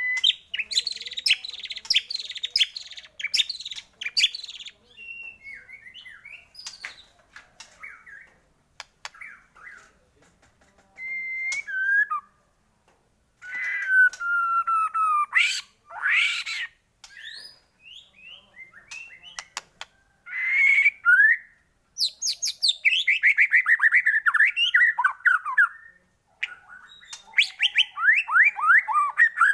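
White-rumped shama (murai batu) singing a varied song: loud clear whistles, sliding notes and scratchy chatter broken by short pauses, with quick runs of falling notes near the end.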